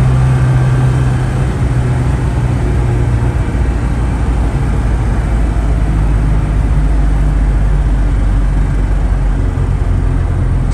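GAZ-24 Volga's ZMZ-24D four-cylinder petrol engine running as the car drives; its strong low note drops lower about three seconds in and stays there.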